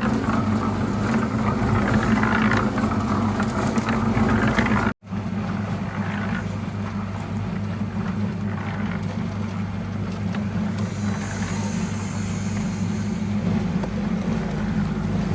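An engine running steadily at an even pitch, breaking off for a moment about five seconds in.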